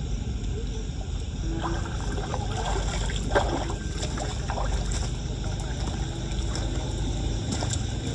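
Floodwater sloshing and splashing over a steady low rush of water, with a sharper splash or knock about three and a half seconds in.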